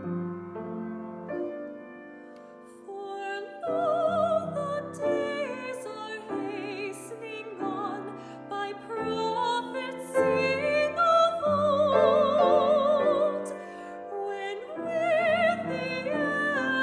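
Soprano singing a classical carol with wide vibrato, accompanied by piano. The piano plays alone at first, and the voice comes in about four seconds in.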